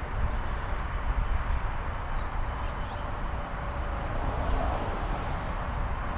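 Steady low outdoor rumble with a hiss above it, even throughout, with no distinct pitched or sudden sound.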